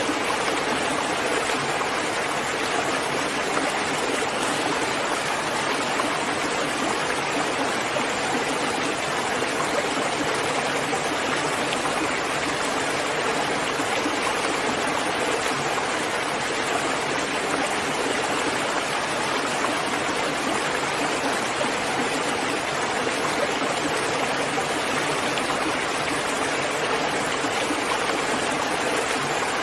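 Steady rain falling, an even rushing hiss that holds constant with no separate drops or thunder standing out.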